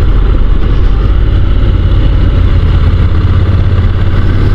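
Honda NC750 DCT motorcycle's parallel-twin engine running at a steady pace while riding, a constant low drone under an even rush of noise.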